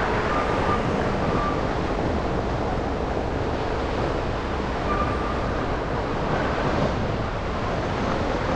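Steady traffic and tyre noise of a car driving through snowy, slushy city streets, a continuous rushing hiss.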